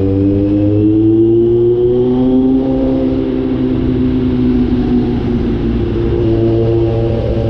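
Kawasaki Z900's inline-four engine with the catalytic converter removed, running under way. Its exhaust note rises gently in pitch over the first three seconds, eases off a little, then holds steady.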